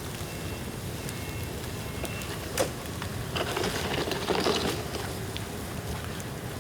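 Bamboo bonfire crackling, with one sharp pop about two and a half seconds in, then a second or so of denser crackling and hissing.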